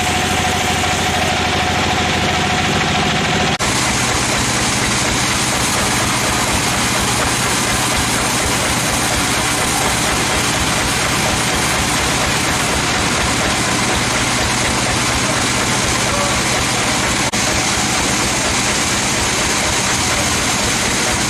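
Sawmill machinery running steadily: a motor's even hum under a dense, noisy wash. The sound changes abruptly about three and a half seconds in, and dips briefly once later.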